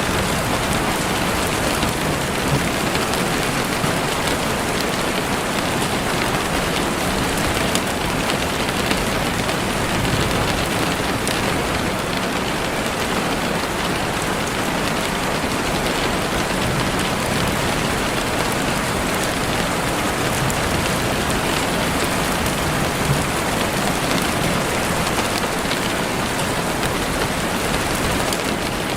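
Heavy rain falling steadily on leaves and the forest floor, a dense even hiss with scattered patters of individual drops.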